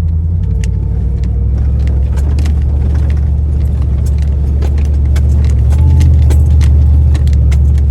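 A 4x4's engine drones low and steady, getting a little louder about five seconds in, as the truck drives over a rough trail. Many sharp clicks and rattles of loose items and the body jolting sound over the engine.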